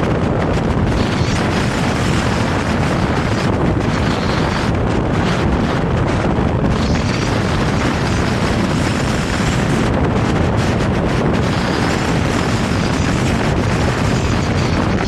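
Vario low-floor tram running along the track: a steady, loud rumble of wheels and running gear mixed with heavy wind buffeting on the microphone. A faint high whine comes in about halfway through, fades, and returns near the end.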